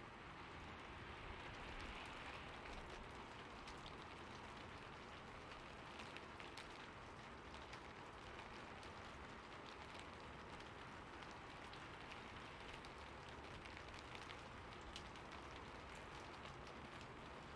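Steady rain falling, a soft even hiss with many small scattered drop ticks.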